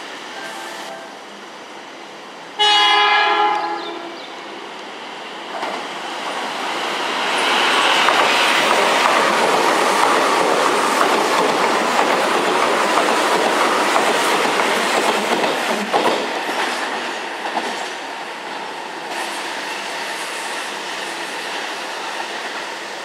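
Keihan 2400 series electric train sounds one short horn blast about three seconds in, then runs past close by, its wheels clattering over the rail joints, the noise building to a peak and fading away.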